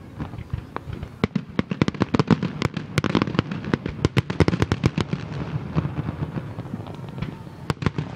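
Fireworks bursting: a rapid run of many bangs and crackles about a second in, thinning out to scattered bangs near the end.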